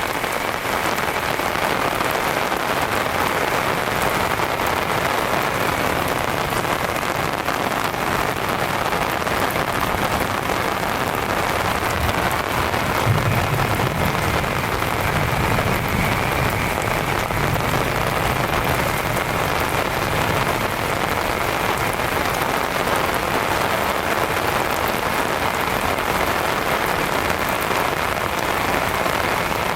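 Heavy rain falling steadily, with a low rumble of distant thunder swelling and fading in the middle.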